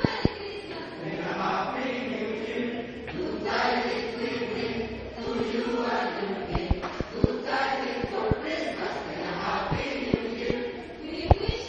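Choir singing together in sustained, wavering lines, with scattered sharp clicks throughout.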